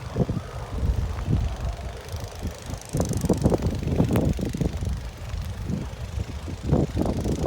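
Wind buffeting the microphone in a snowstorm, a constant low rumble, with irregular short thumps about three to four seconds in and again near the end.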